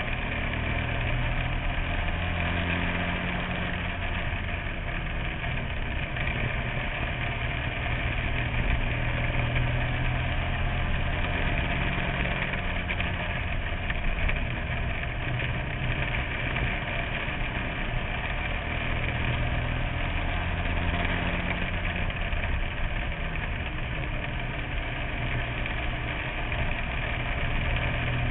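Bandolero race car engine heard from inside the car, running hard under race load, its pitch rising and falling every few seconds as the car accelerates and lifts around a short oval.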